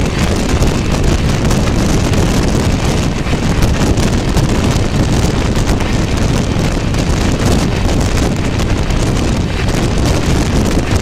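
Express passenger train running at high speed, with a steady, loud rush of wind over the microphone and the train's running noise.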